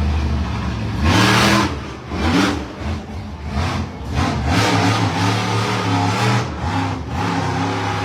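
Monster truck's big-block V8 revving hard in repeated surges, its pitch climbing and dropping, with the loudest blast about a second in.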